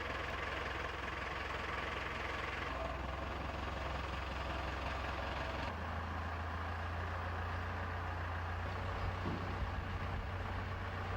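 Steady machinery noise with a low hum. The sound changes abruptly about a third of the way in and again about halfway through.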